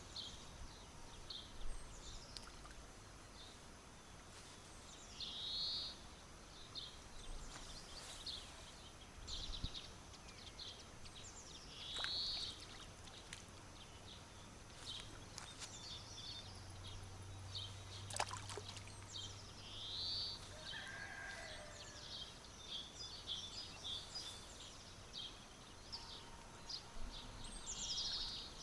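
Birds singing: one bird repeats the same short song phrase every six or seven seconds, over scattered short chirps from others.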